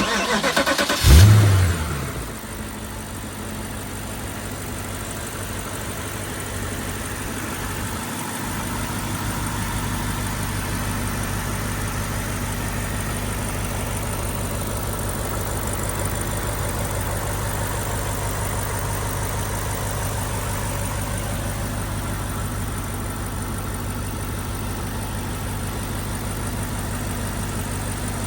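Wiesmann MF4 GT's V8 engine started up. It catches with a brief sharp rev flare about a second in, drops back and settles into a steady idle.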